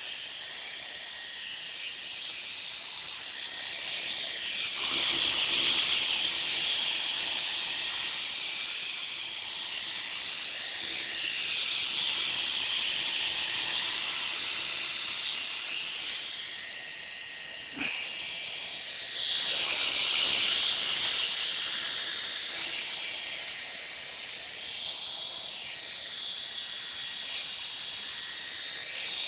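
Belt CP V2 electric RC helicopter in flight: a steady hiss from its spinning rotors with a thin motor whine, swelling louder twice as it moves closer and falling back. A short click sounds just before the second swell.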